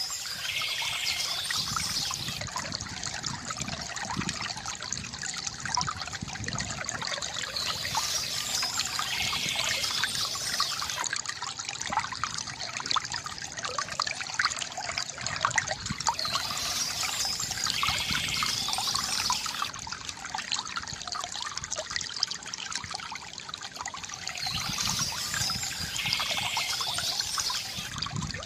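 Water trickling and gurgling steadily from a bamboo fountain spout into its basin. Birds chirp in a short spell that comes back about every eight seconds.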